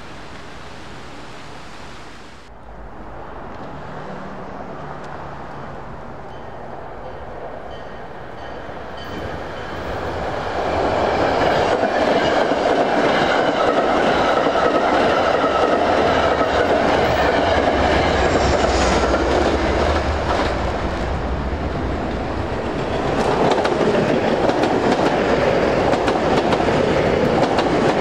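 A train approaching and passing close by. It grows louder over the first ten seconds, then stays loud with wheels clattering over the rail joints.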